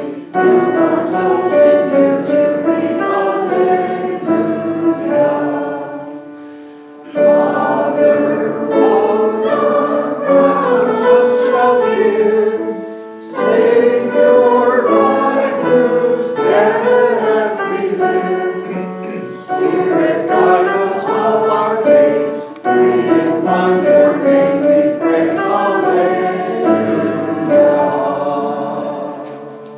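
Congregation singing a hymn together, in long phrases with short breaths between them.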